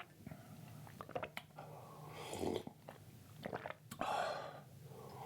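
A person chewing food close to the microphone, with sharp mouth clicks and short noisy crunches.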